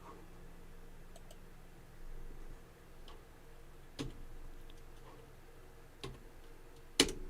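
A few sharp computer-mouse clicks spaced a second or two apart, the loudest near the end, over a faint steady hum.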